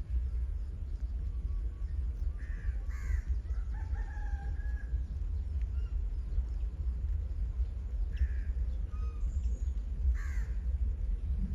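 Crows cawing a few times, harsh calls about two to three seconds in and again near the end, over a steady low rumble.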